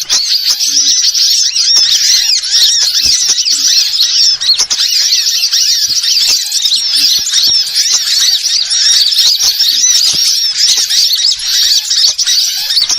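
Dense, continuous twittering of many small birds, with rapid overlapping high chirps and short whistled sweeps, played as a bird-lure (pikat) call.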